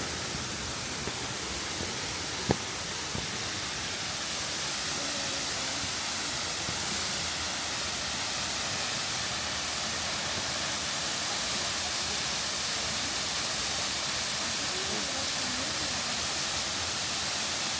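Yugawara Fudo Falls waterfall pouring steadily, an even rushing hiss of falling water, with one sharp click about two and a half seconds in.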